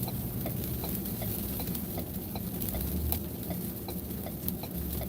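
Hazard flasher ticking at an even pace, about three clicks a second, over a low, steady engine idle hum inside a stopped vehicle's cabin.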